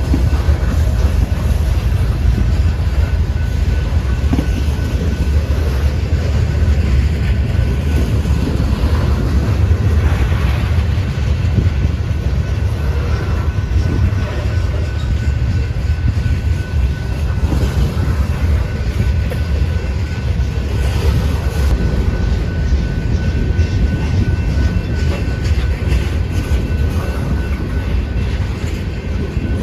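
Freight train rolling slowly past on a transfer track: a steady low rumble of the cars, with the clickety-clack of wheels over rail joints and a faint steady high tone running through it.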